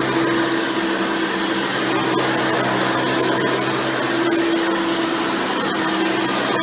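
Hoover Elite Supreme upright vacuum running steadily during carpet cleaning, its 7.2 amp motor with a 20-blade fan impeller giving a constant tone over the airflow noise, with the single-row stiff-bristle brush roll turning. The tone swells and fades slightly as the vacuum is pushed back and forth.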